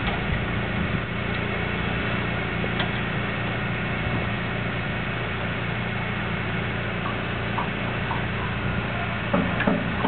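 A vehicle engine idling steadily, with a few short knocks near the end.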